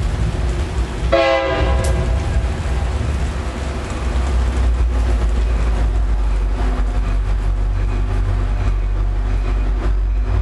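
A commuter train's horn gives one short blast about a second in, then a diesel locomotive and its cars pass with a steady low engine rumble.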